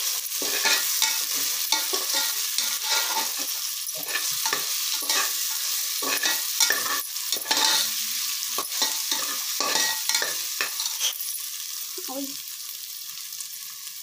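Chopped onions, green chillies and ginger-garlic paste sizzling in hot oil in an aluminium pressure cooker as they are sautéed. A steel slotted spoon scrapes and taps against the pot while stirring. The stirring stops near the end, leaving the sizzle alone.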